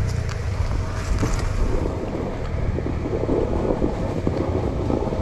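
Motorcycle engine running, heard through wind buffeting on the microphone as a steady low rumble.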